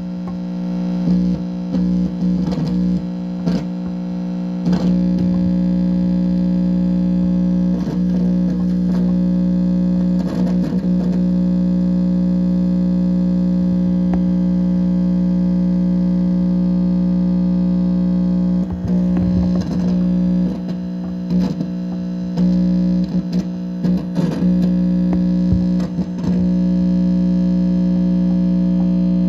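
Electronic interference played through an amplifier speaker: a loud steady buzzing drone with irregular crackles and pops over it, coming in clusters.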